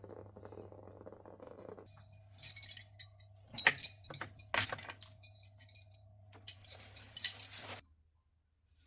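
Small metal objects clinking and jangling in several bursts over a steady low hum, which stops near the end.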